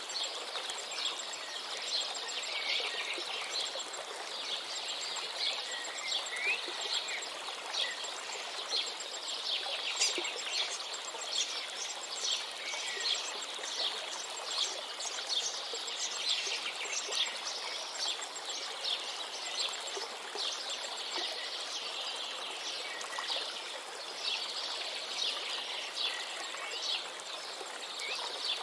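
Many small birds chirping and twittering in quick, overlapping calls over the steady rush of a river.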